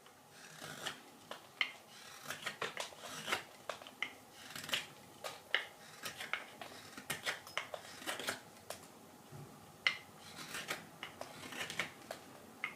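A carving knife shaving green wild cherry wood on a spoon blank, in short, irregular slicing strokes.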